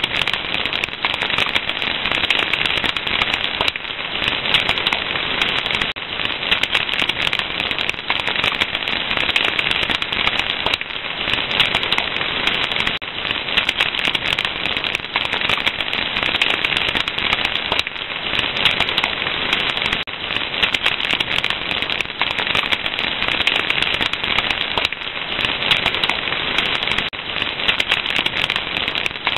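Fire crackling: a dense, unbroken run of small pops and snaps over a steady hiss.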